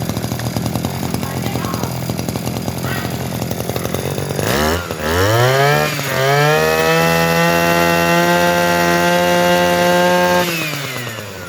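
Small Mitsubishi T180 two-stroke engine on a grass cutter idling, then revved up twice. It holds at high revs for about four seconds and drops back toward idle near the end.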